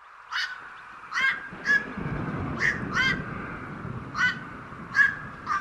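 Black-crowned night heron calling: short crow-like squawks, about eight in a few seconds at uneven spacing.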